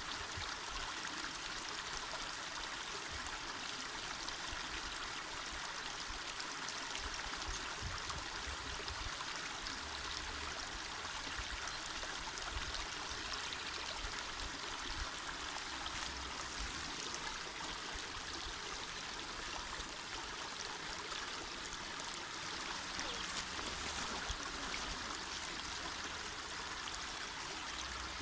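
Small mountain river flowing over stones, a steady rush of water with gurgling.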